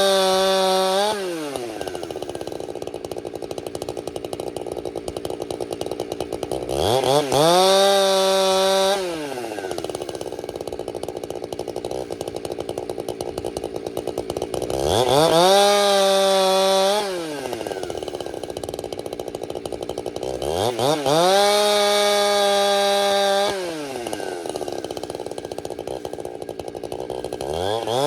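Two-stroke chainsaw bucking a pine log. It idles between cuts and four times revs quickly to full throttle, holds about two seconds and drops back to idle, about every six seconds, then starts a fifth rev-up at the very end.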